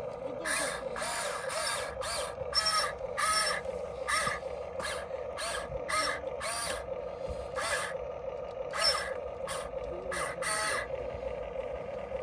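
Electric gear motors of a Huina 1594 RC excavator whining with a wavering pitch. Repeated short, harsh grating bursts, about one or two a second, run over the whine.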